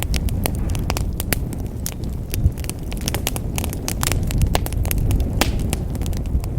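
Wood fire crackling and popping in a fireplace, many sharp irregular snaps over a steady low rumble of the flames.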